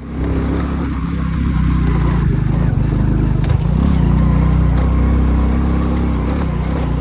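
Motorcycle engine running while riding, its pitch rising and falling slightly, over a steady rush of noise; it cuts in suddenly at the start.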